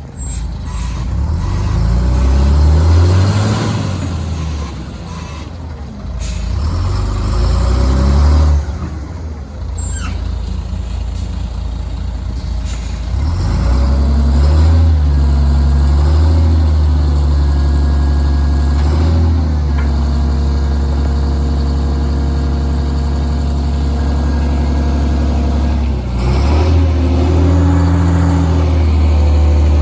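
Volvo A25C articulated dump truck's diesel engine revving up and falling back several times, then held at steady high revs with a couple of brief dips. There are a couple of short, sharp hisses early on.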